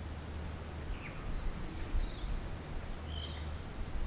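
Small birds calling in open bush over a steady low rumble. A couple of single downward-sliding calls are followed from about halfway by a quick run of short high chirps, about four a second.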